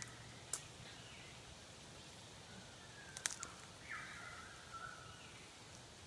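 Faint wild bird calls: short whistled notes, some gliding in pitch, the strongest about four seconds in. Two sharp clicks, about half a second in and about three seconds in.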